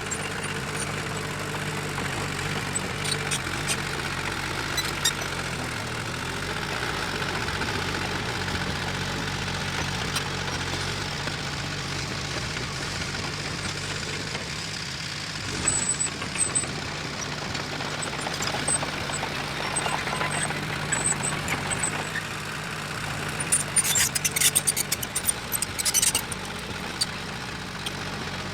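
Diesel engine of heavy earthmoving machinery running steadily. Short bursts of rapid metallic clatter come about halfway through, and a longer, louder run of clatter comes near the end.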